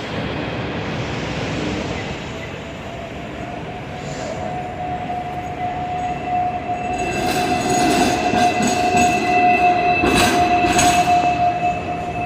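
Hong Kong tram running along street rails: a steady high squeal from the steel wheels sets in about two seconds in and grows louder, with a run of clacks and knocks from the wheels on the track in the second half.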